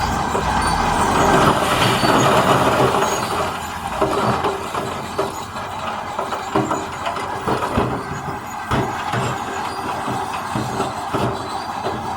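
Heavy earthmoving machinery at work on rock: a diesel engine running under a dense scraping noise for the first few seconds, then irregular metallic clanks and knocks.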